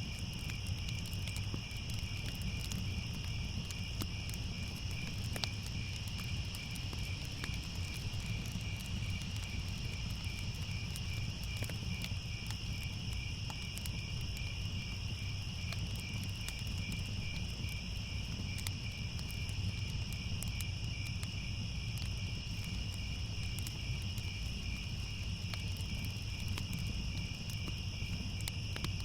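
Crickets chirping in a steady, evenly pulsing trill, over a low rumble with scattered faint crackles.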